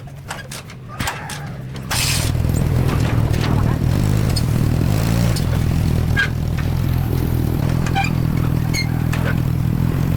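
A few light clicks and knocks, then about two seconds in a small engine starts up and keeps running with a steady low rumble.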